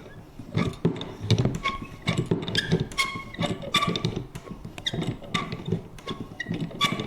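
Vintage paper punch creaking and clicking over and over: short high squeaks mixed with small knocks, two or three a second.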